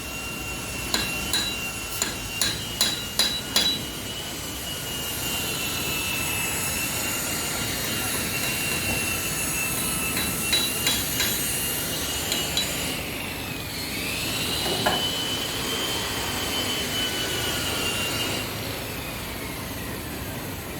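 Hammer blows ringing on steel: a quick run of strikes in the first few seconds, then a few more about halfway through. A steady high whine holds underneath, dipping and rising again about two-thirds of the way through.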